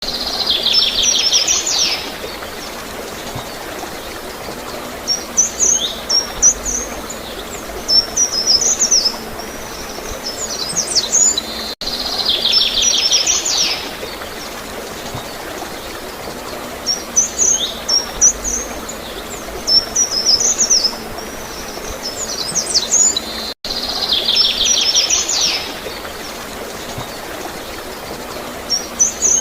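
Songbirds chirping and trilling over a steady wash of flowing, gurgling water. Each cycle opens with a buzzy trill of about a second and a half, followed by clusters of high chirps. The same recording loops about every 12 seconds, with a brief dropout at each seam.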